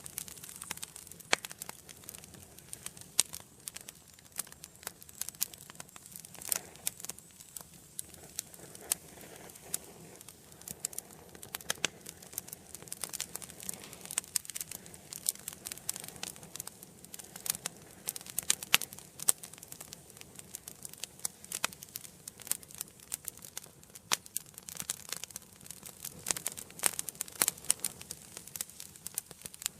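Wood fire crackling in an indoor fireplace: irregular sharp snaps and pops over a soft hiss of burning, with a few louder pops scattered through.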